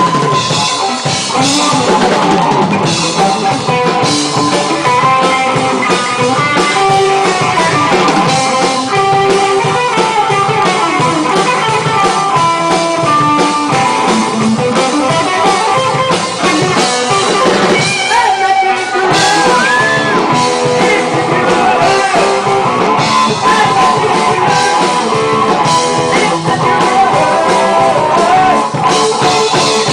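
Rock band music: guitar and drum kit playing a song, with keyboard in the mix.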